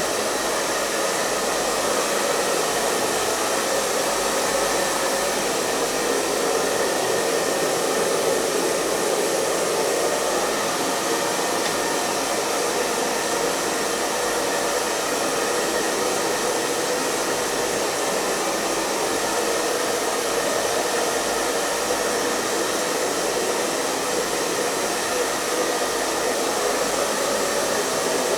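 Hair dryer running continuously at a steady speed: an even rushing noise of blown air with a faint steady motor hum, with no change in pitch or level.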